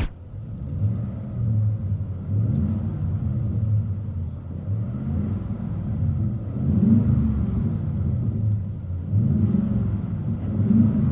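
Ford F-150's 5.0 V8 engine running through a Borla stainless muffler on a true dual exhaust: a deep rumble whose pitch rises and falls several times as the engine speed changes.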